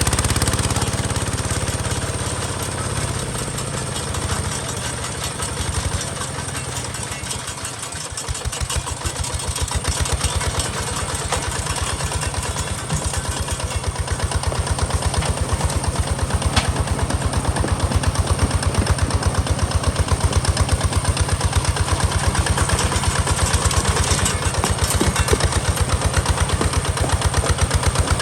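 Hinota HG Gold 155 DI tractor's diesel engine running with a steady rapid pulse. It eases off a few seconds in, then runs louder and evenly from about ten seconds in.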